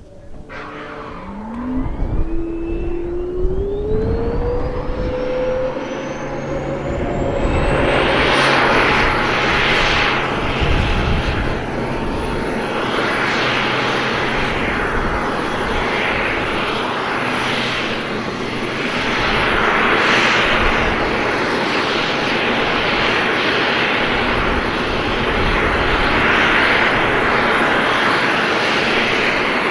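F-22 Raptor's Pratt & Whitney F119 turbofan spooling up at engine start: a whine rising steadily in pitch over about eight seconds, then a steady high whine over a loud rushing roar that swells and eases.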